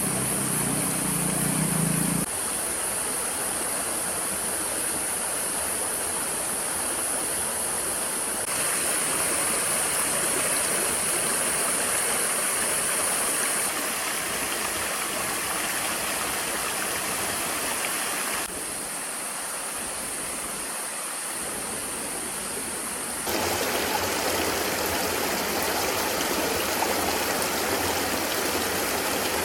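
Steady rushing of a flowing stream, its level and tone jumping at several abrupt cuts. A low engine hum is heard over it for the first two seconds.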